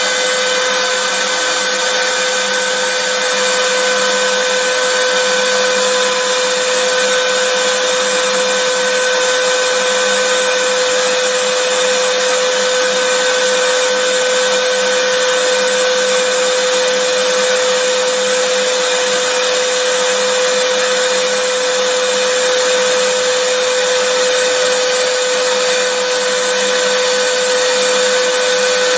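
Vacuum cleaner motor running steadily, a constant rushing noise with a steady hum-like whine.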